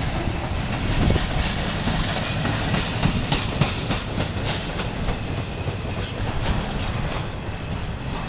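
CSX intermodal freight train's cars rolling past, their steel wheels rumbling and clattering on the rails with a steady run of clicks and knocks.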